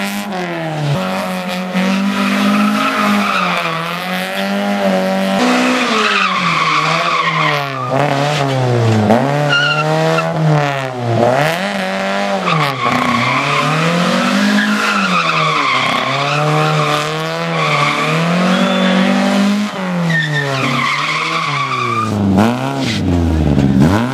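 Car engine revving hard and dropping back again and again, its pitch rising and falling every second or two, with tyres squealing and skidding through tight turns under the throttle.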